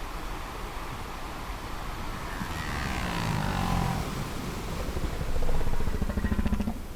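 Whale calls over a steady wash of sea noise: a call falling in pitch a few seconds in, then a low pulsed moan near the end.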